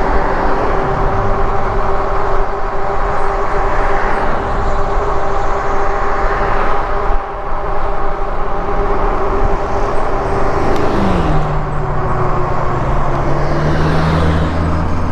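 Road traffic heard from a moving e-bike: a steady rush of noise with a continuous whine. About eleven seconds in, a vehicle engine's low note drops in pitch and then holds as it draws close.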